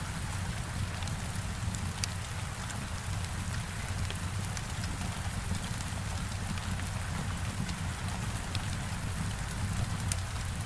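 Heavy rain falling in a steady dense hiss against a window, over a low rumble, with scattered sharp ticks throughout.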